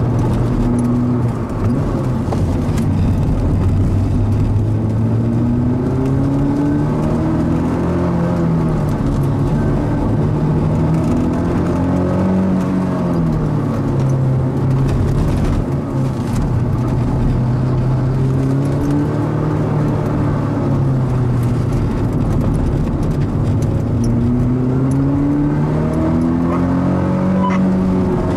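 Mazda NC Roadster's stock 2.0-litre four-cylinder engine driven hard on track, revs climbing under acceleration and dropping at gear changes and braking, over and over. There are short lifts about a second and a half in and about sixteen seconds in.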